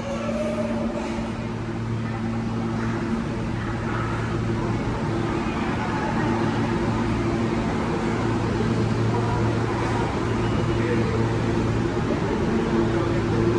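New York City subway train (R143 or R160A-1) standing at the station platform, giving a steady low electrical hum with a few even overtones, slowly growing louder.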